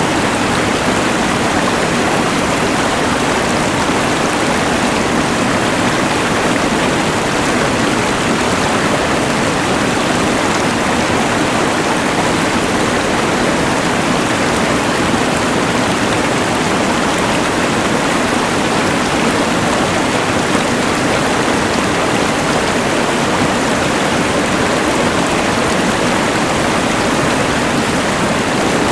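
Steady rushing of a mountain river blended with the even hiss of a LectroFan white noise machine, unchanging throughout.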